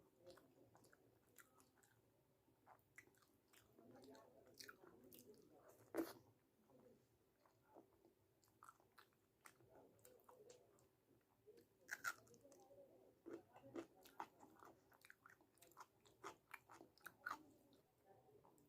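A person chewing and biting food, with soft crunches and wet mouth clicks, the sharpest about six seconds in and again about twelve.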